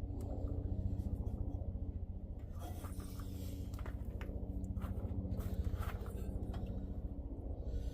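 A steady low mechanical hum, with intermittent light scraping and clicks from handling parts.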